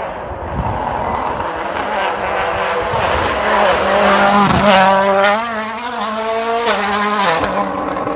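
Turbocharged World Rally Car engine revving hard as the car passes at speed. The pitch rises and dips with the throttle, broken by several sharp pops and cracks. It grows louder to a peak about halfway through, then eases back.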